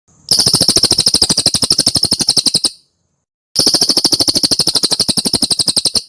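Cililin bird calling: two rapid trills of evenly repeated notes, each lasting about two and a half seconds, with a short pause between them.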